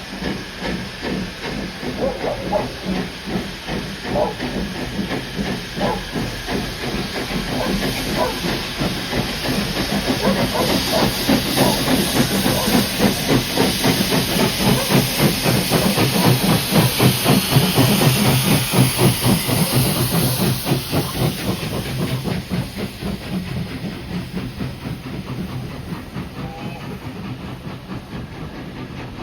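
Steam locomotive working past, its exhaust beats chuffing rapidly over a steady hiss of steam. It grows louder to a peak about two-thirds of the way through, then fades away.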